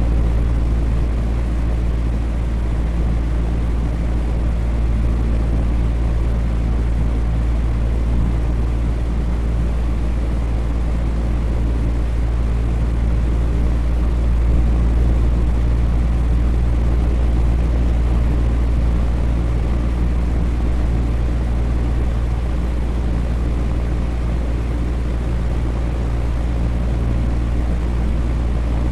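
Electric fan running steadily: a constant whoosh of moving air with a deep low hum from the motor, unchanging throughout.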